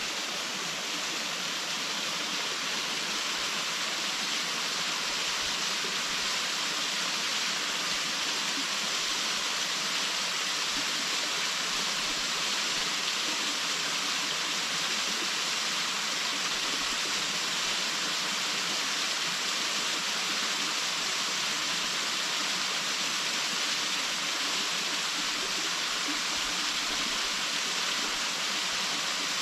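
Waterfall splashing in a steady, unbroken rush of water, strongest in the higher range.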